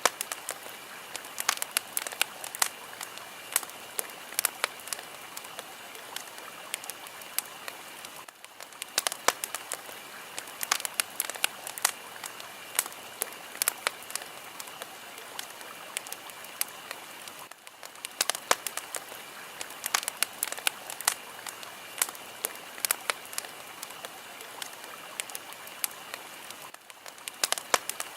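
Fire crackling: a steady hiss with many sharp, irregular pops and snaps, dipping briefly about every nine seconds.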